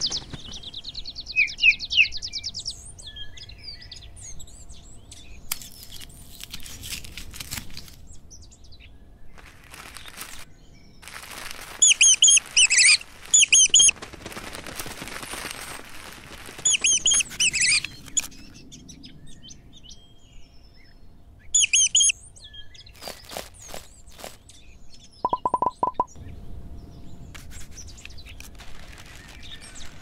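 Bird chirps in short, quick clusters, loudest about a third of the way in and again twice more before the middle of the second half, with quieter rustling noises between them and a brief run of clicks near the end.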